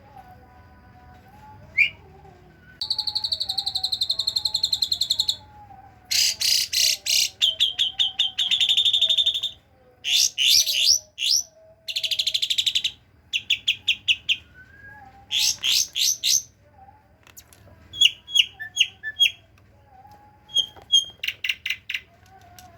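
A jalak suren (pied starling) singing, mimicking cililin and kapas tembak phrases: fast buzzy trills and rapid runs of sharp high notes, repeated phrase after phrase with short pauses between them.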